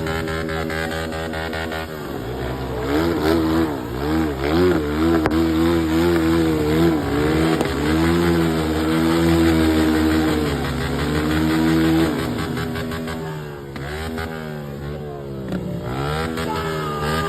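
Vehicle engine revved hard again and again, its pitch rising and falling, after a couple of seconds of steady running; it eases off near the end.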